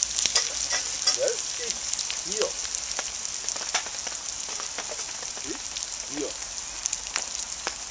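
Chopped meat and vegetables frying in a pan: a steady sizzling hiss with scattered crackles and pops.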